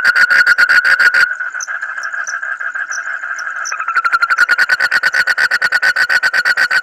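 Frog calling in a fast, even run of pulses, about eight a second, on a fairly high note. About a second in the call drops to a softer, steadier sound for a few seconds, then the rapid pulsing resumes.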